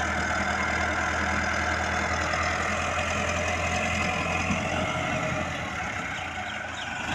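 Tractor's diesel engine running steadily under load, its low drone easing off slightly about five and a half seconds in.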